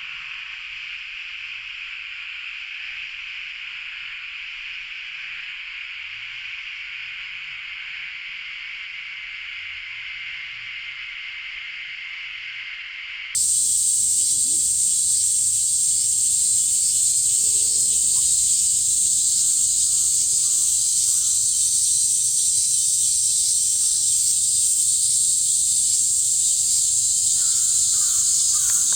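Cicadas droning in a steady chorus, which jumps about 13 seconds in to a louder, higher-pitched cicada din. Crows caw a few times, once in the middle and again near the end.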